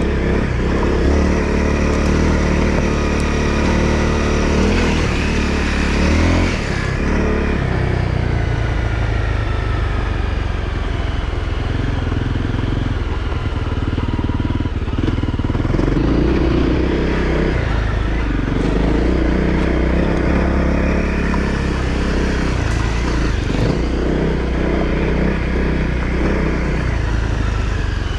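Honda CRF250L's single-cylinder four-stroke engine running on the move, its pitch rising and falling with the throttle.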